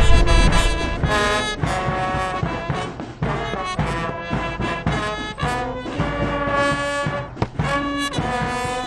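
Brass music, with trumpets and trombones playing a melody of short held notes.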